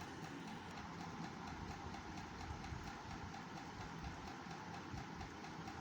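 Steady, low background noise with a faint hum, with no clear event standing out.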